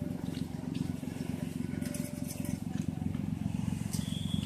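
Car engine idling through an aftermarket HKS-style box muffler: a steady, deep exhaust rumble with an even pulse.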